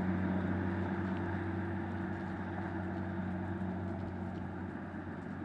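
A motor running steadily: a low, even hum with no change in speed.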